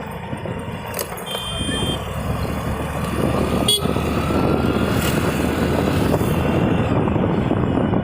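Scooter riding on a road: steady wind rumble on the microphone and road noise, growing louder about three seconds in. A vehicle horn toots briefly about a second and a half in.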